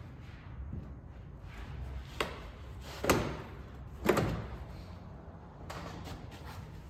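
Three sharp knocks about a second apart, the second and third the loudest, each with a short ringing tail, over a low background rumble.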